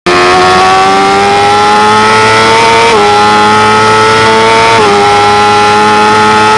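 Motorcycle engine running hard at high revs, its pitch climbing slowly with two brief dips, about three and five seconds in, over a steady rush of wind.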